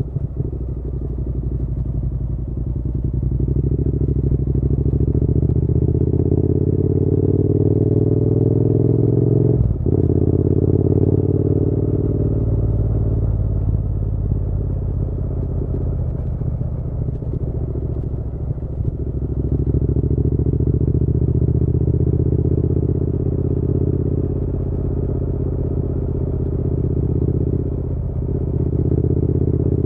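Triumph Bonneville parallel-twin engine pulling the bike along. It rises in pitch for several seconds, cuts briefly for a gear change about ten seconds in, rises again, then settles into a steady cruise, with another short break near the end.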